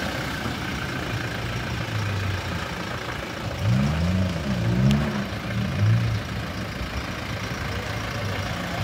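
4x4 engine running at low revs while the vehicle crawls over an off-road obstacle. Its note rises and falls three times, from about three and a half to six seconds in, as the throttle is worked, then settles back to a steady drone.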